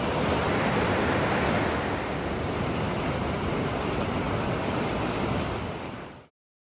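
Floodwater of the swollen White River rushing in a steady, loud roar, which cuts off abruptly near the end.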